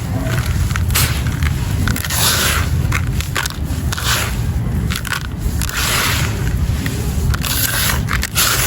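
Wet, gritty sand crumbling and breaking apart in water, with crackling and crunching that swells in repeated bursts every second or so, among sharp little clicks.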